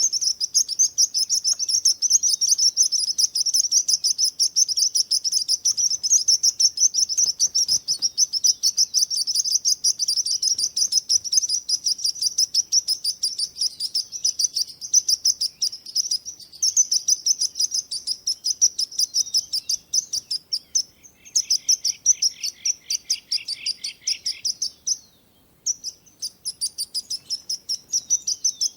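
Small songbirds chirping in a fast, continuous, high-pitched stream of chirps. A second, lower-pitched run of chirps joins for about three seconds past the two-thirds mark, and the chirping breaks off for a moment shortly after.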